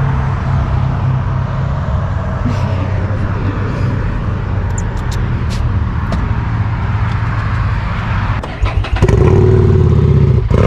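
A motor vehicle's engine running steadily, growing louder about nine seconds in.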